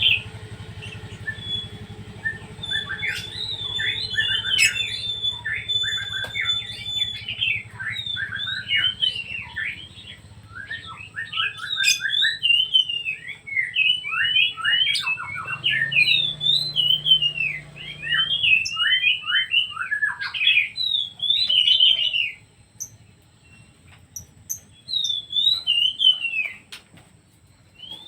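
A kept songbird singing a long, varied song of rapid chirps and whistled notes, with brief pauses. A low steady hum sits underneath and stops about two-thirds of the way through.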